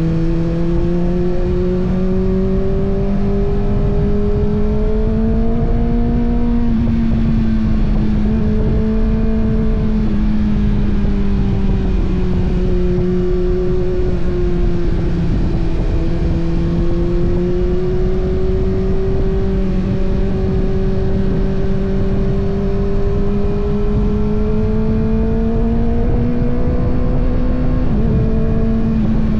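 2025 Kawasaki ZX-6R's 636 cc inline-four engine running under load while being ridden. The engine note rises and falls slowly with the revs and drops sharply about seven seconds in and again near the end. A low rush of wind and road noise runs beneath it.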